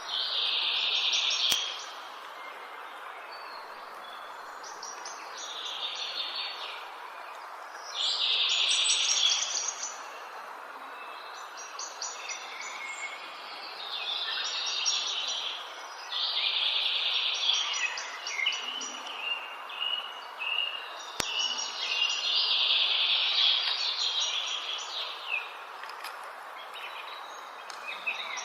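Songbirds singing rapid trilled phrases of one to two seconds, repeated every few seconds, over a steady rushing background noise.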